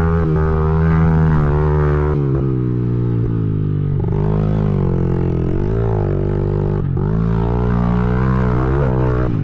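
Small four-stroke pit bike engine under riding load, its note rising and falling with the throttle, easing off about two seconds in and then building again.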